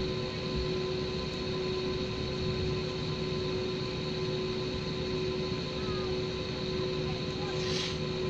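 Airliner cabin noise: the jet engines and rushing air make a steady roar with a steady hum of several tones. A brief hiss comes through near the end.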